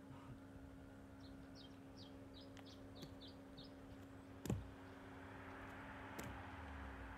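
Quiet outdoor ambience: a small bird gives a quick run of short, high chirps. About four and a half seconds in there is a sharp click with a brief low falling tone, over a faint steady hum.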